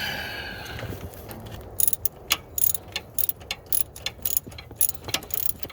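Hand ratchet clicking in short irregular runs as it is swung back and forth to tighten a pedal-linkage bolt on the tractor, after a brief metallic ring that fades over the first second.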